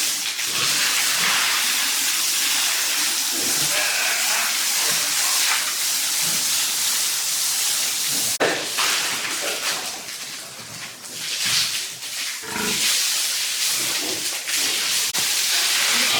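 Steady loud hissing noise with scattered low animal sounds, plausibly pigs grunting. There is a sharp knock about halfway through, and the hiss eases off for a couple of seconds soon after.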